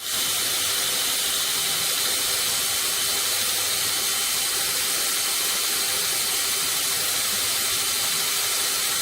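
Belt grinder running steadily, its abrasive belt hissing against the knife's cutting edge to restore the micro bevel.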